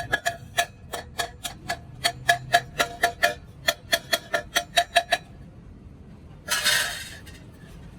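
Rapid hammer blows on sheet metal, about five a second, each with a short metallic ring, stopping about five seconds in; a brief hissing burst follows near the end.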